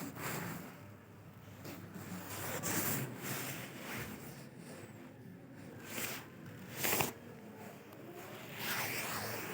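Close rustling and rubbing noises, irregular, with a few short sharp scrapes; the loudest is about seven seconds in.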